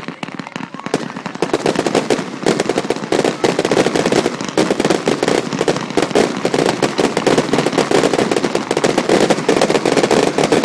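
Aerial fireworks firing in a rapid barrage from one spot on the ground: a dense, unbroken run of launch thumps and cracking, popping bursts, many each second.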